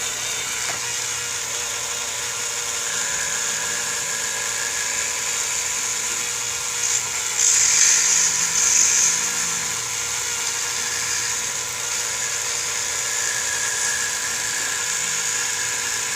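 Dremel rotary tool running at high speed with a buffing tip, polishing between the engine's cooling fins: a steady high whine that grows louder and harsher for a couple of seconds about halfway through.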